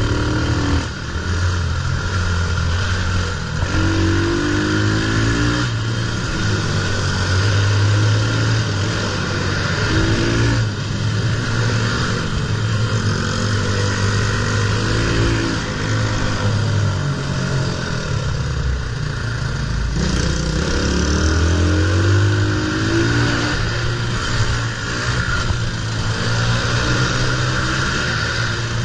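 Pit bike engine running as the bike is ridden, revving up in rising sweeps several times and easing off between them.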